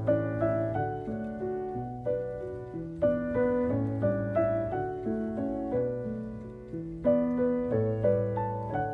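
Gentle piano background music: struck notes and chords that ring and fade, with a new chord about every second or two.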